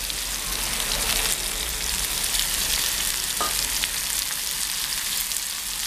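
A wet masala paste of garlic, ginger, mustard and fenugreek ground with vinegar, sizzling in hot oil in a kadai just after it is added. Steady frying hiss with scattered small crackles and pops.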